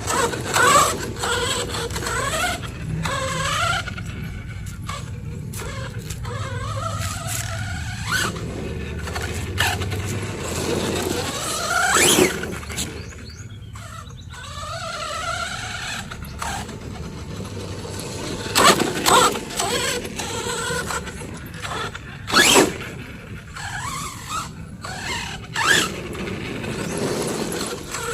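DHK Maximus electric RC monster truck running, its motor whining up and down in pitch as the throttle is worked. About five sudden loud noise bursts are spread through it.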